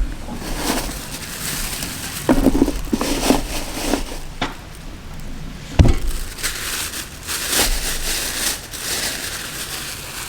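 Rustling, crinkling handling sounds with scattered clicks and knocks, and one sharp thump about six seconds in.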